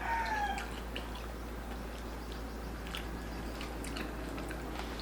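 The tail of a rooster's crow fades out in the first half second, followed by faint scattered clicks and small eating sounds over a steady low hum.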